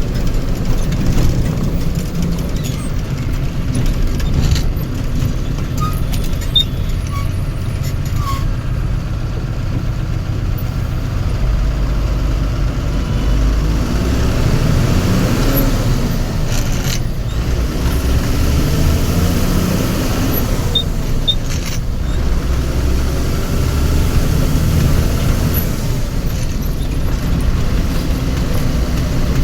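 Motor vehicle engines running steadily in road traffic, a deep rumble with engine notes rising and falling about halfway through.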